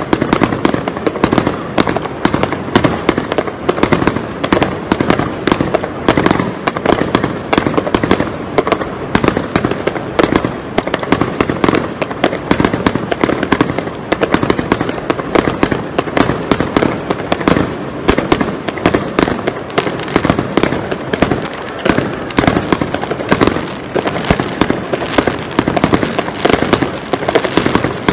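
Aerial fireworks display: an unbroken barrage of bangs and crackling bursts, several a second.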